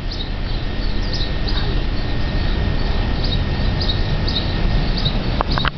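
Short, high bird chirps repeating about once or twice a second over a steady low rumble.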